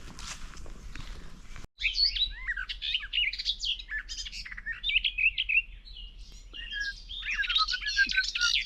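A small songbird singing a fast, chatty song of warbles and trills, with a quick run of repeated notes near the end. Before the song starts, about two seconds in, there is faint rustling of footsteps.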